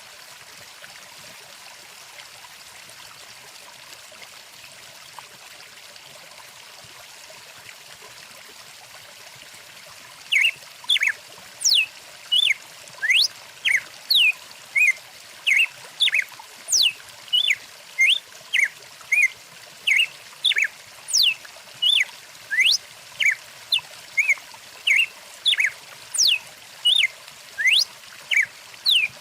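Stream water trickling steadily. About ten seconds in, a bird starts calling, repeating short sweeping chirps about twice a second, louder than the water.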